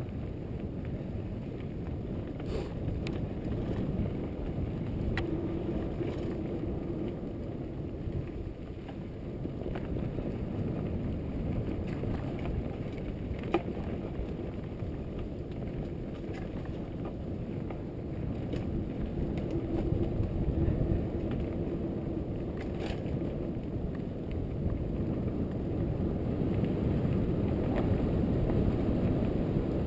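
Riding noise from a Trek Fuel EX8 mountain bike on the move: a steady low rumble of the tyres rolling over the trail, mixed with wind on the microphone, broken by a few sharp clicks and rattles from the bike.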